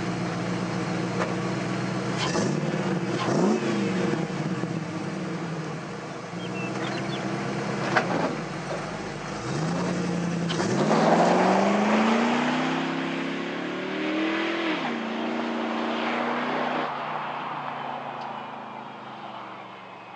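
Ford SVT Lightning's 5.8-litre V8 through Bassani shorty headers, a non-catted midpipe and a Bassani axle-back exhaust, idling and blipped once, then revving up in a long rising pull about halfway through. The pitch drops near the end and the sound fades away, with a sharp click about eight seconds in.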